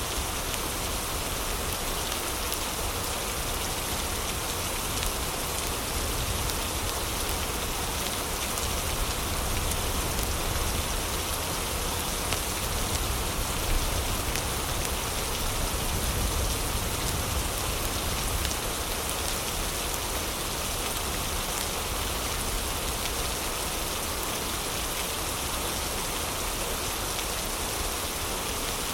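Heavy rain falling steadily, a dense, even hiss of drops with a low rumble beneath.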